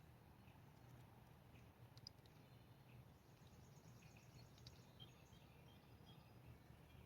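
Near silence: faint outdoor ambience with a low steady hum and a few faint, short high chirps and ticks.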